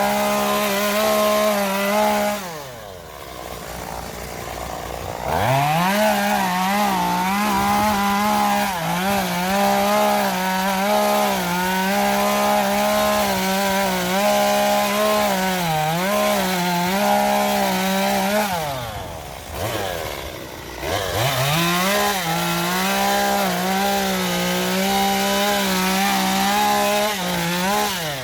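Small two-stroke chainsaw running at full throttle and cutting wood, its pitch wavering under load. It drops back toward idle twice and revs up again, in three long runs.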